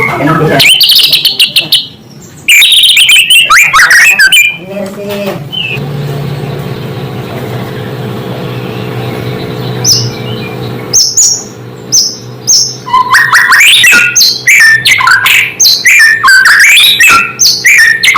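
White-rumped shama (murai batu) singing loudly: fast strings of varied whistles, trills and chatter that sweep up and down in pitch. The song pauses for a few seconds in the middle, where a lower steady drone takes over, and returns denser towards the end.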